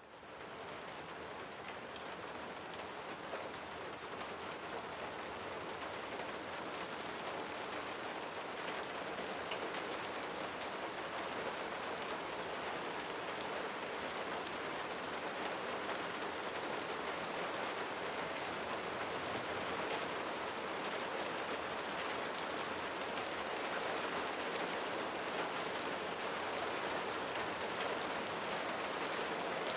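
Steady rain, a dense hiss full of individual drop ticks. It swells up from silence in the first second, then holds steady.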